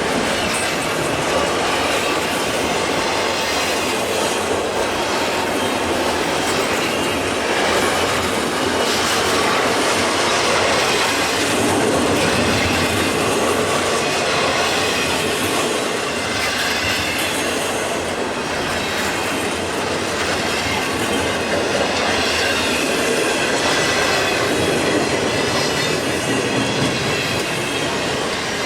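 A long freight train's cars rolling steadily past on the upgrade, with wheels clattering on the rails and some wheel squeal.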